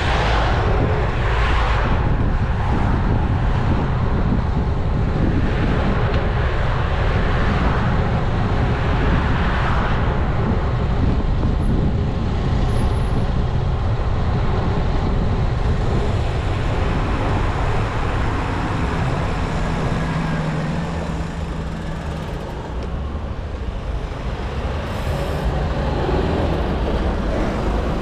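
Wind rushing and buffeting over an action camera's microphone on a moving road bike, a steady low rumble, with road traffic noise that swells and fades a few times.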